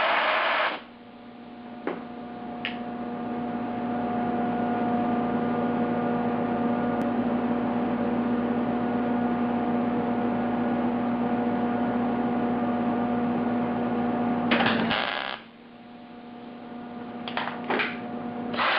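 Steady electrical hum between welds on car-door sheet metal, with the welding arc's crackle stopping about a second in. A short burst of arc crackle comes near the middle-to-late part, then two brief sputters, and steady arc welding starts again at the very end.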